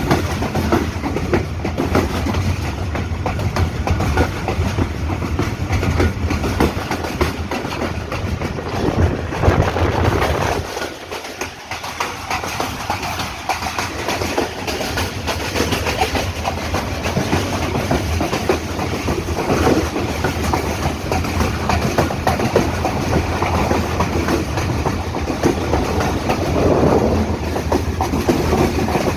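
Hazara Express passenger train running along the track, its wheels clattering over the rails. The low rumble dips briefly about eleven seconds in.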